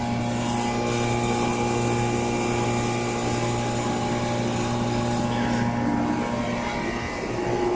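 The Bristol compressor of a 2014 York heat pump's outdoor unit running with a steady hum during a defrost cycle.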